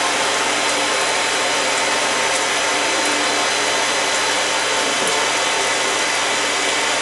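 Steady rushing hiss of a household shower spraying into a bathtub, with a faint steady motor hum from a blow dryer running alongside.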